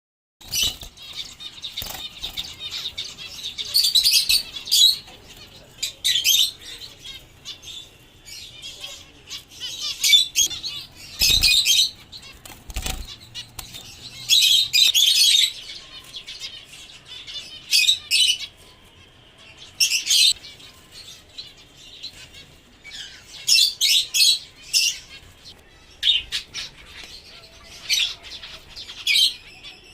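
Finches chirping in short, fast clusters of high calls every second or two, with two low thumps near the middle.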